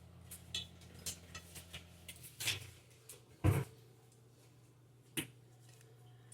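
Small clicks and knocks of kitchen items being handled, with one louder knock a little past the middle. A low steady hum stops about two and a half seconds in.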